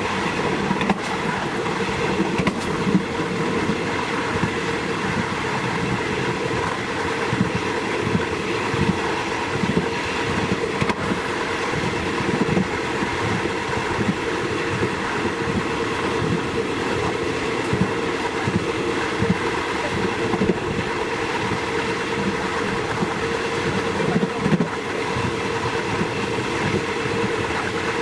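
Train running along the track, heard from on board: a steady running noise with a hum, broken by irregular clatter of the wheels over the rails.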